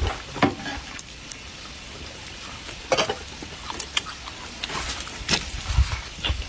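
Close-up eating sounds: scattered short clicks and wet smacks of someone eating braised fish and meat.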